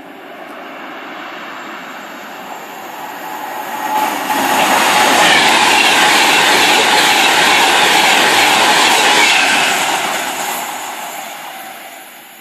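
A train passing by: the rail and wheel noise swells, is loudest for about five seconds in the middle, then fades away.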